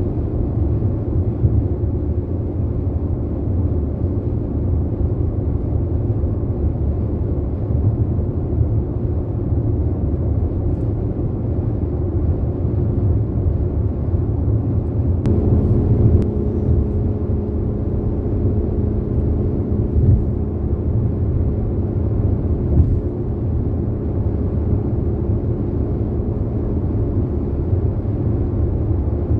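Car driving, a steady low road and engine rumble. A steady hum joins about halfway through.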